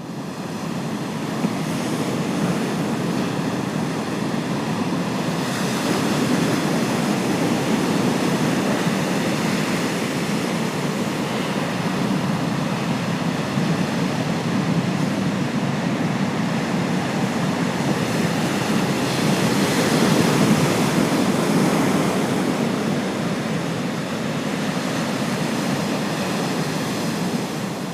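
Strong wind flapping a beach umbrella's fabric and buffeting the microphone in a steady, loud rush, with ocean surf underneath; the wind swells in gusts a couple of times.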